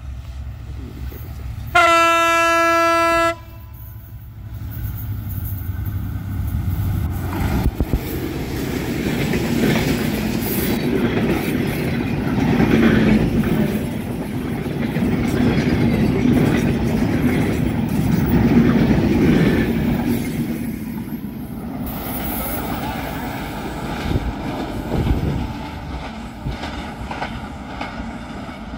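A diesel passenger train's locomotive horn sounds one steady blast of about a second and a half. Then the train runs past close by, its wheels rumbling and clacking over the rail joints. Near the end it falls to a quieter rumble.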